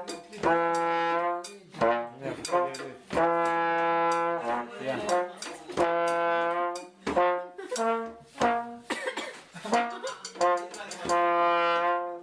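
Music with a brass instrument holding long notes, broken by short, sharp percussive hits between the notes.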